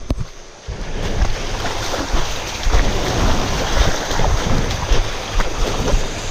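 Wind buffeting the microphone: a loud, irregular rumbling rush, after a brief drop in level just at the start.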